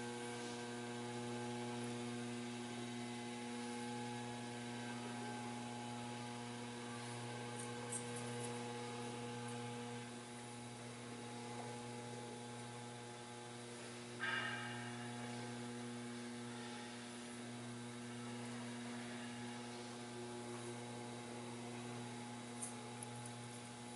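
Lantech Q300 turntable stretch wrapper running with a steady electric motor hum. A short higher-pitched scrape comes about fourteen seconds in.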